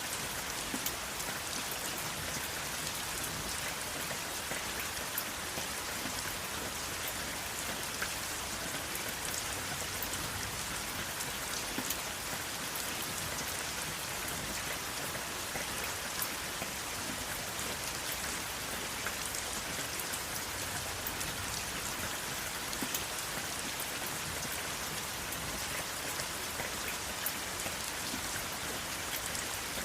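Steady rain falling, an even hiss with many individual drops ticking on a surface and no thunder.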